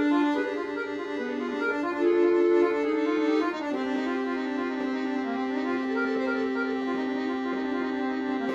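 Solo accordion playing a melodic phrase of short notes, then holding a sustained chord from about halfway through while a few notes move above it.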